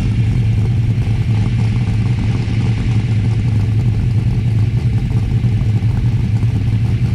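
A Ford Cleveland V8 engine idling steadily with a deep, even exhaust note.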